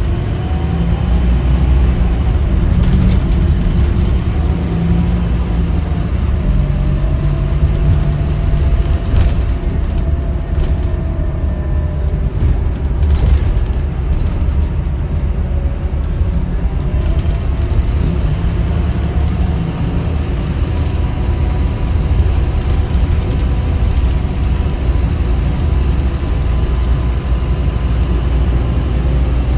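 Scania K310UB bus's five-cylinder diesel engine running under way: a steady deep rumble with whining tones that slowly rise and fall as the bus speeds up and slows.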